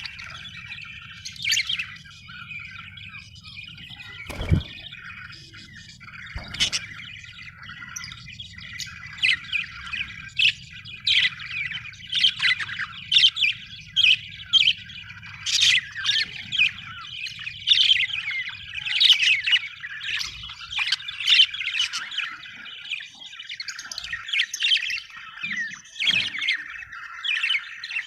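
Budgerigars chirping and chattering, the quick calls coming thick and fast from about nine seconds in. Two short knocks sound a few seconds in, over a faint low hum that stops near the end.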